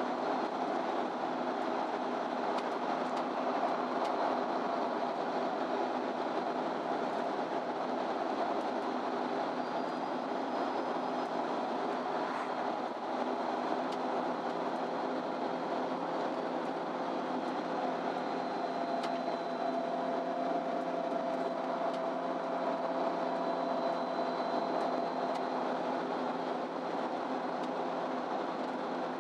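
MAN Lion's City Ü intercity bus driving, heard from inside the passenger cabin: a steady engine and drivetrain hum over road noise, with a whine joining in past the middle.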